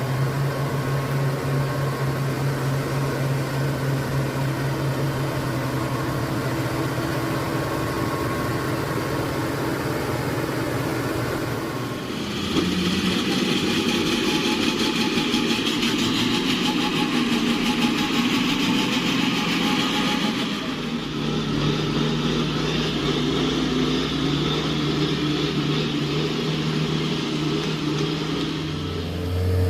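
Mitsubishi Fuso truck's diesel engine running under load. It gets louder and harsher about twelve seconds in, with a hiss added, and eases back a little near twenty seconds.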